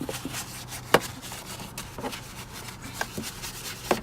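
Stiff scrub brush rubbing and knocking at caked mud on a truck's rubber floor, loosening the dirt. The knocks and taps are irregular, and the sharpest comes about a second in.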